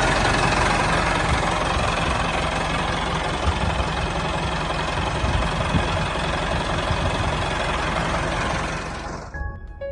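Tractor engine running steadily at idle with a low, even knock, dying away near the end.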